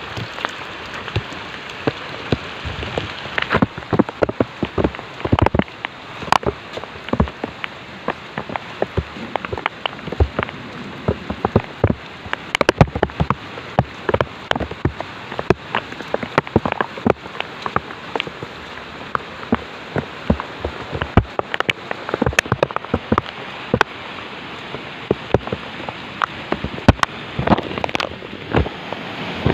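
Rain falling: a steady hiss with many irregular sharp drop hits, some much louder than others.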